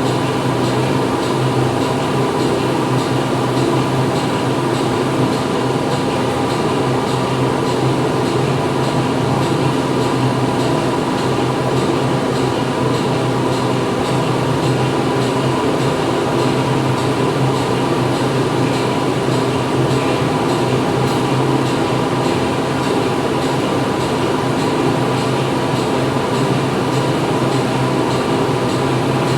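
Factory machinery running steadily inside a production hall: a dense, unchanging industrial drone with several steady hum tones over a constant noise.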